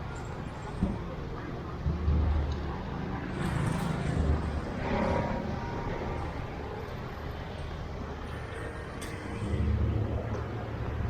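Road traffic passing: a low engine rumble from vehicles that swells about two seconds in and again near the end.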